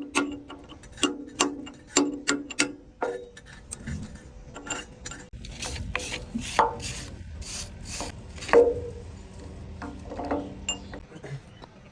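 Metal being worked by hand: a run of light metallic taps and clinks that ring briefly, then several longer scraping strokes, the loudest near the end.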